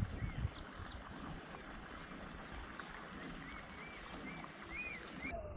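Birds chirping: many short, arched chirps repeating over a steady background hiss, with wind buffeting the microphone in the first half second.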